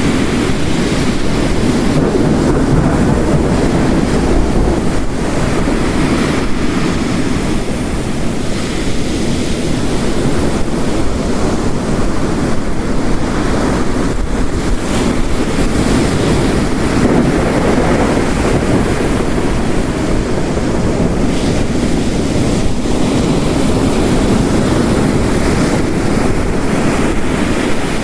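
Ocean surf crashing on the coast layered with heavy rain, a dense steady wash that swells and eases every several seconds.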